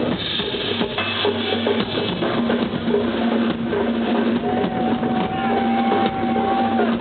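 A live rock band playing, with the drum kit's kick and snare keeping a steady beat under bass and other instruments. A long held note rises above the band from a little after halfway until near the end.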